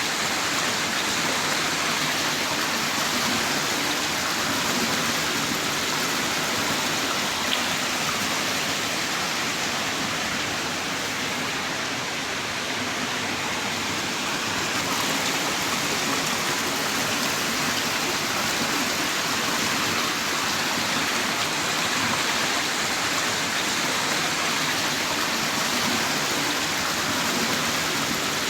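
Heavy rain falling in a steady, dense downpour, a continuous even hiss without breaks.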